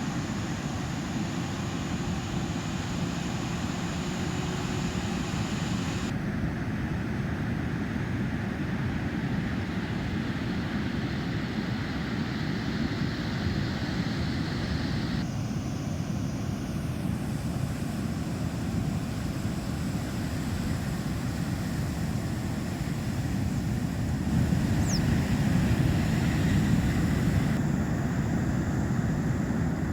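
Steady low rumble of surf and wind buffeting the microphone at a rough river mouth, shifting abruptly several times and growing louder near the end.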